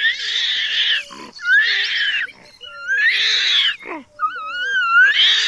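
Young toque macaque giving shrill, wavering screams, four in a row, each about a second long and rising in pitch.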